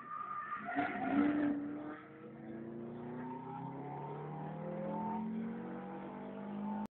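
Car engine heard from inside the cabin on a race track, with a brief louder rush about a second in, after which the engine note climbs steadily under acceleration. The sound cuts off suddenly near the end.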